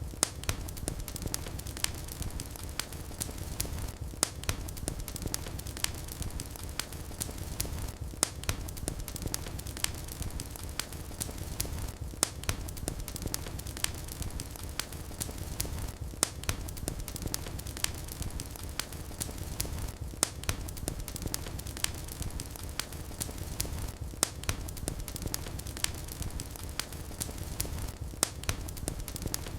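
Fireplace fire crackling, with irregular sharp pops and snaps over a steady low rush of the flames.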